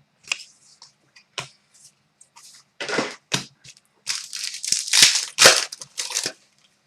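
Hockey trading cards and their packaging being handled: irregular rustling, crinkling and sharp card clicks, sparse at first and then denser and louder about four seconds in.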